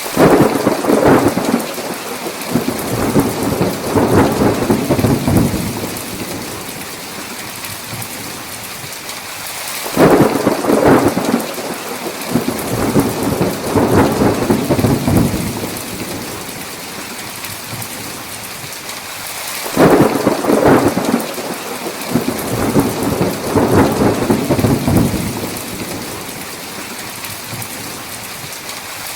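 Thunderstorm with steady heavy rain hissing throughout. Three rolls of thunder each break suddenly and rumble for about six seconds, about ten seconds apart, and another begins at the very end.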